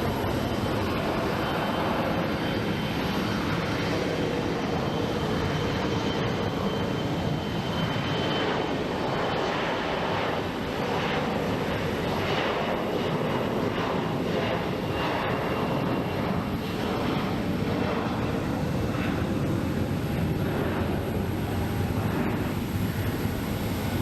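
Regional jet's turbofan engines running at takeoff power on the departure roll, a steady loud jet noise.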